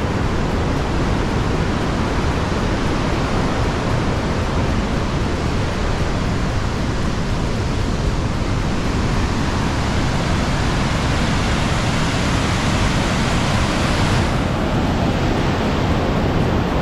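Waterfall running loud, a steady rushing of falling water with no break. About fourteen seconds in the hiss turns duller as its highest part drops away.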